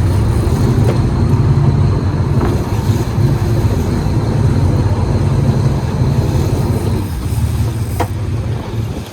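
Yacht's engines running steadily with a low drone, with a single sharp click near the end.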